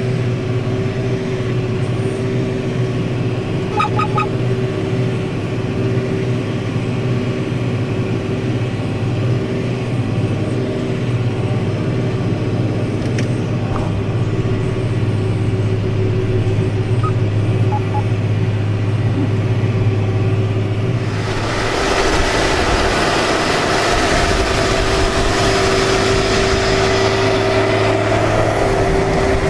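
An engine running steadily under load. About two-thirds of the way through, a louder, rough hissing noise joins it and keeps on.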